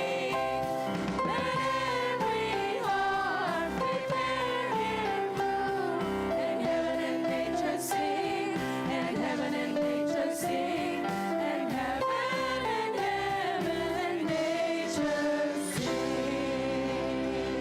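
Children's choir singing a song over instrumental accompaniment. The voices drop out near the end, leaving the accompaniment holding a chord.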